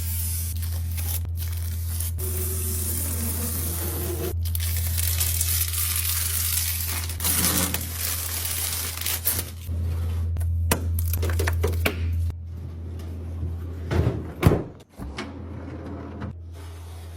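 Food packaging and containers being handled in a fridge restock: rustling and crinkling plastic, then a run of sharp clicks and knocks as items are set down, the loudest about two-thirds of the way in. A steady low hum runs underneath.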